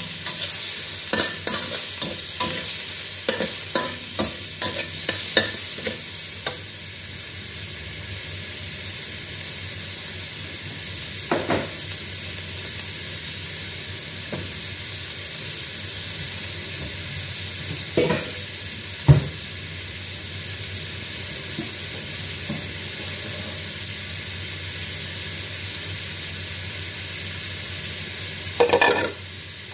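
Shrimp frying in a wok with a steady sizzle. A metal spatula scrapes and clacks against the wok over the first several seconds, then gives only a few single knocks.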